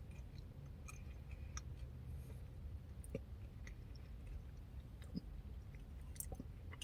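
Faint chewing of a yogurt parfait with blueberries and pecans: scattered small wet mouth clicks over a low steady hum.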